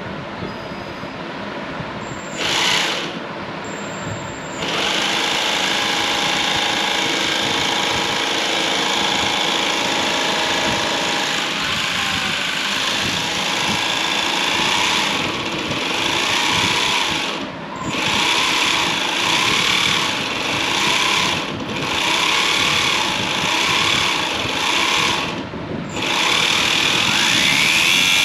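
Small geared electric motor running in steady bursts, cutting out briefly several times and speeding up and down near the end.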